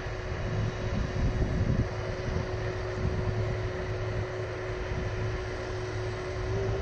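Four General Electric CF6-80C2 turbofans of a Boeing 747-400 running at high power during departure: a deep rumble under a steady whine that rises slightly near the end.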